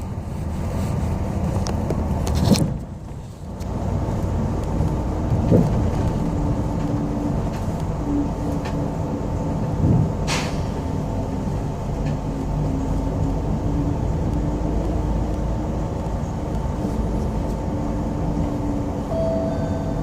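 Inside a moving city bus: steady engine and road rumble with a low hum. The noise dips briefly about three seconds in, and a couple of sharp knocks come through, one about ten seconds in.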